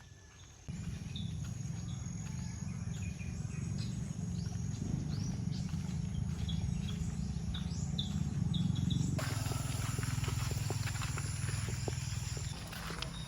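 Outdoor wind rumbling on the microphone, setting in suddenly about a second in, with many short high chirps over it.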